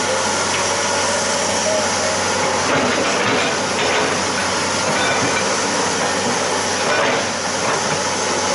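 Excavator running steadily: a continuous hissing engine noise with a few faint knocks.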